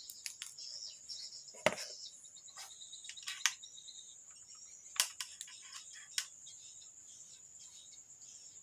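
A few sharp clicks and taps from handling small tools and wiring, over a faint, steady, high-pitched chirring.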